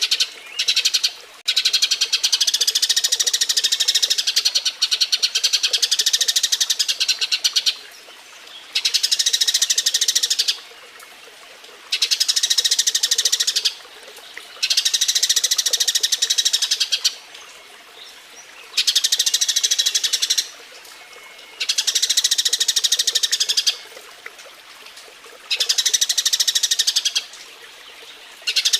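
Eurasian tree sparrows chattering in fast, dense runs of chirps: the excited calling of sparrows at mating. The runs come in bouts of a few seconds each, broken by short pauses about a second long.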